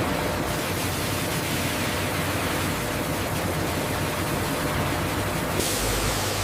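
Steady, even noise of machinery, a hiss over a low hum, turning brighter and hissier near the end.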